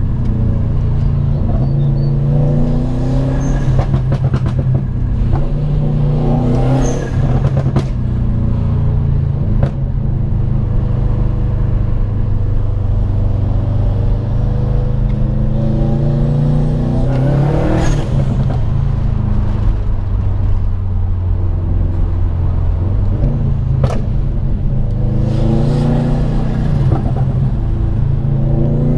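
Subaru WRX STI's turbocharged flat-four heard from inside the cabin while driving, the engine note rising and falling several times as it accelerates and changes gear. A few brief sharp sounds cut through it.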